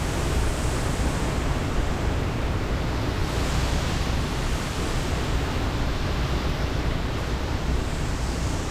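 Hurricane winds blowing steadily, with wind noise buffeting the microphone in a deep rumble under a constant hiss.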